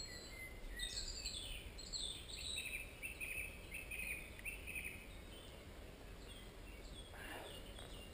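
Woodland birds singing: a run of quick, repeated chirps starting about a second in and lasting a few seconds, then a single falling call near the end, over a faint steady background noise.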